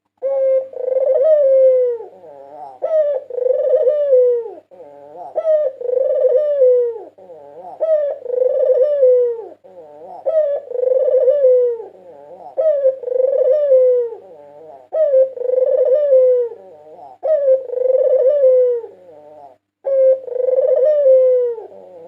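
White ringneck dove (puter putih) cooing: the same rolling coo phrase repeated about every two seconds. It is a competition-champion bird's song, used as a lure call.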